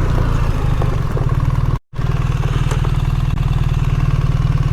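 BMW R 1300 GS boxer-twin engine running steadily under way, a fast even pulse. The sound cuts out completely for a moment just under two seconds in.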